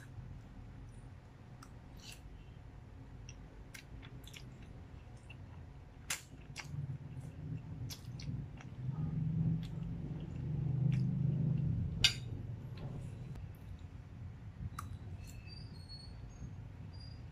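Close-up wet chewing of a mouthful of fettuccine carbonara, heaviest in the middle stretch, with a few sharp clicks scattered through, the loudest about twelve seconds in.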